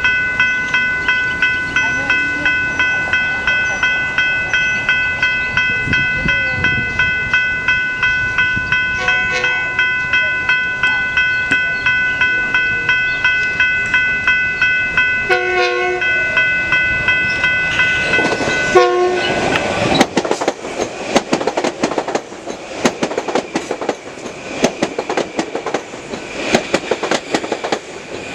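A warning bell dings steadily, about two to three times a second, while the Kawasaki M9 electric train's horn sounds three times: short, then longer, then short. About 20 seconds in, the bell stops and the train's wheels click and rumble over the rail joints as it pulls in.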